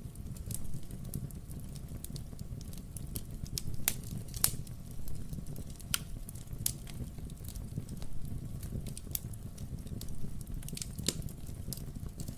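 Wood fire burning in a fireplace: a steady low rumble with irregular crackles and sharp pops from the logs, the loudest pops about four, six and eleven seconds in.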